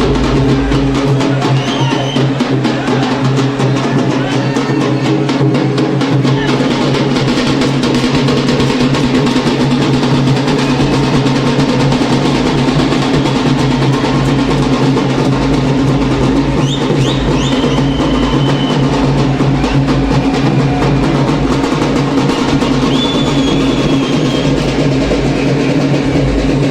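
Loud, drum-heavy music with a strong bass beat, played through a large DJ sound system.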